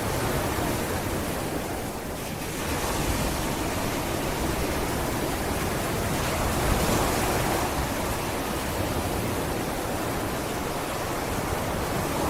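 Sea waves breaking and washing on a beach, a steady rushing surf that dips briefly about two seconds in, then swells again, loudest about halfway through.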